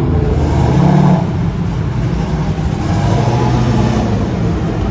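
Car engine running steadily, swelling briefly louder about a second in.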